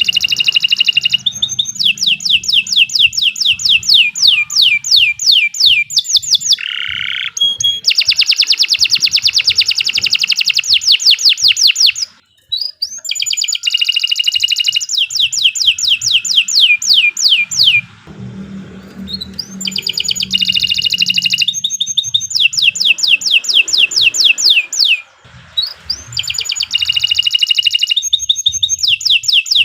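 Domestic canary singing in long, rapid trills: strings of fast repeated high notes, broken by short pauses every few seconds.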